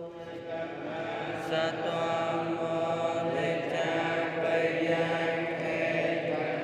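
Steady chant-like droning of several held vocal tones, with a few pitches sliding up and down.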